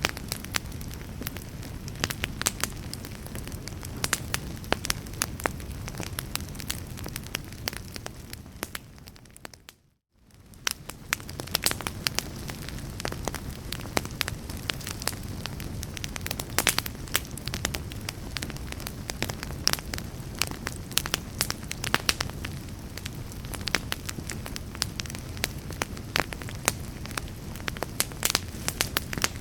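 Wood fire in a fireplace crackling and popping over a low steady rumble. The sound fades away to silence about ten seconds in and fades back up within a second.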